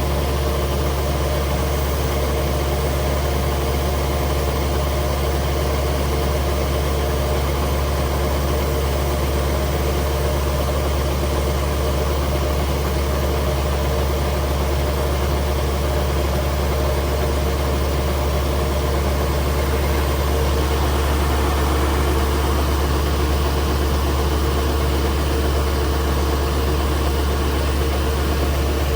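Kubota DC70G Plus combine harvester's diesel engine running steadily at a constant speed.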